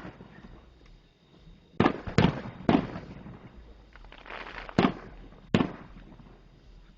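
Aerial fireworks shells bursting: three sharp bangs in quick succession about two seconds in, then two more a few seconds later, each trailing off in a short echo.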